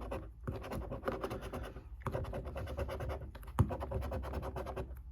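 Scratchcard being scratched off in quick, rapid strokes, in several bouts with brief pauses between them.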